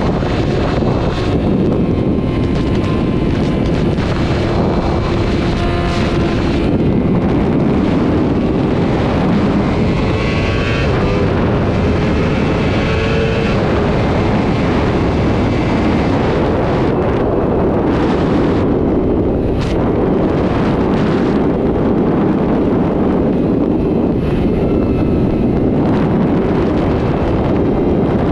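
Sport motorcycle running at highway speed, with heavy wind buffeting the microphone. The engine's pitch slides up and down in places.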